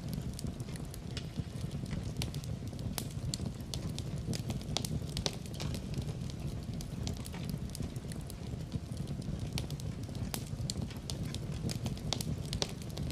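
Wood fire burning in a fireplace: frequent irregular crackles and sharp pops over a steady low background of the flames.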